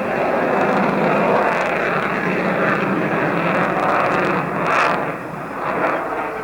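Fixed-wing aircraft engine noise, a fairly even rushing sound.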